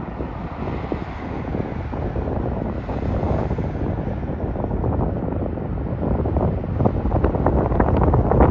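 Wind buffeting the microphone in a dense low rumble that grows stronger and choppier toward the end.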